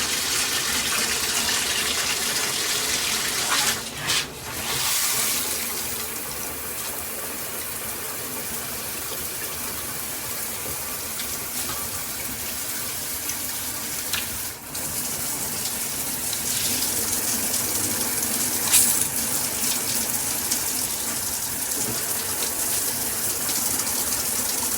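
Handheld shower head running, a steady rush of spraying water that dips briefly twice.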